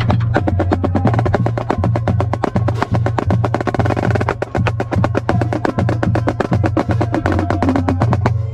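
Marching snare drum played in a fast, continuous run of sharp strokes, with a low bass pulse throbbing underneath in a steady rhythm.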